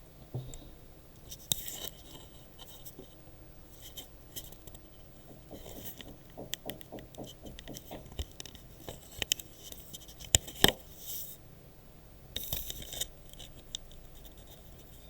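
Irregular sharp taps, clicks and scraping noises heard through the ceiling from the flat above, with a quick run of light taps between about six and eight seconds in and two louder knocks about ten and a half seconds in.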